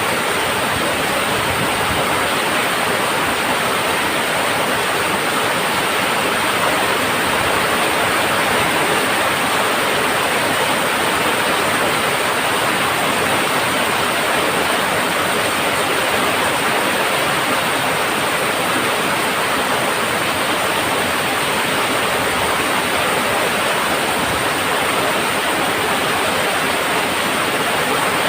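Heavy monsoon rain drumming on a tin roof, a steady, dense hiss with no letup.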